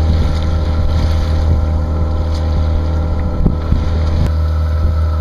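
Sailboat's auxiliary motor running steadily while the boat motors along under power: a constant low drone.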